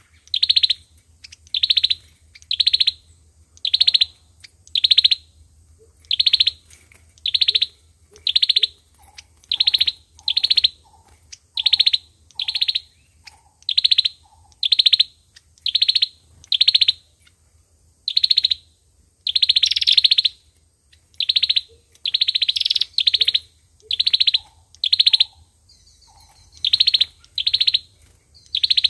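A 'sâu dừa' bird calling: a string of short, high, sharp notes repeated a little faster than once a second, with fainter lower notes in between for a few seconds at a time. A steady low hum runs underneath.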